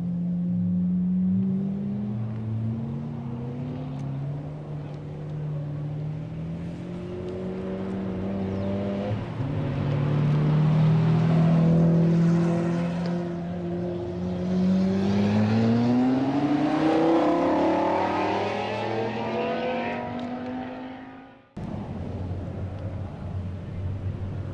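Supercar engines running and revving, with a long rise in pitch as one accelerates about fifteen seconds in. Near the end the sound cuts off abruptly to a steadier drone.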